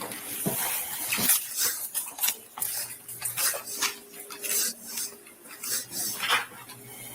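Small hard objects clinking and rattling as they are handled, in a quick irregular run of clicks, over a faint steady hum.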